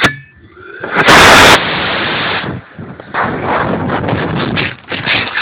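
High-power model rocket motor (Aerotech H268R) igniting about a second in with a sudden, very loud rushing roar. Only one of the rocket's two motors lit. Uneven rushing noise continues for the next few seconds.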